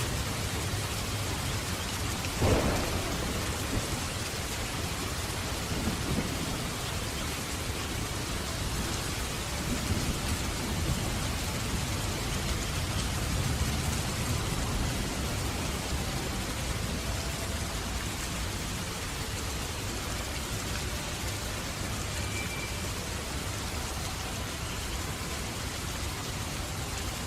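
Steady heavy rain with a sharp thunderclap about two seconds in, followed by fainter rumbles of thunder.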